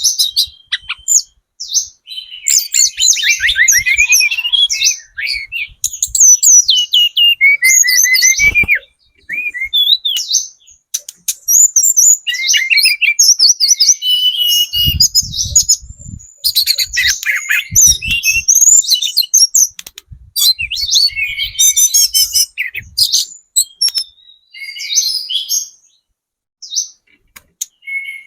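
Hill blue flycatcher singing: quick, varied, high twittering and warbling phrases separated by short pauses, used as a lure song to set other birds calling.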